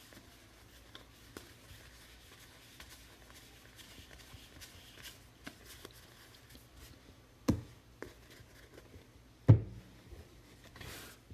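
Faint handling of trading cards and packs on a table: small clicks and rustles, two sharp knocks about two seconds apart in the second half, and a short rustle near the end.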